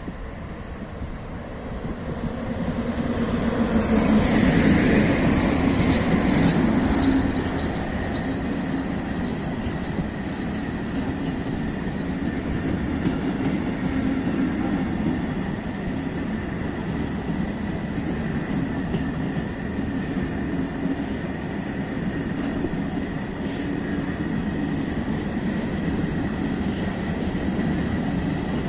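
Electric freight locomotive passes close by, loudest about four to seven seconds in. It is followed by the steady rolling noise of a long train of PKP Cargo covered hopper wagons going past on the rails, with a thin steady high tone running under it.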